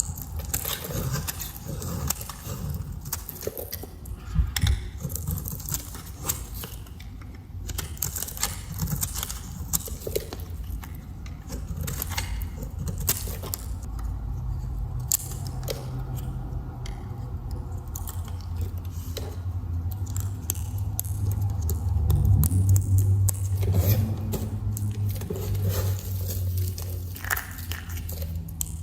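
A knife cutting through dry, crunchy soap, giving many sharp crackling clicks as the soap breaks apart. A low hum runs underneath in the second half.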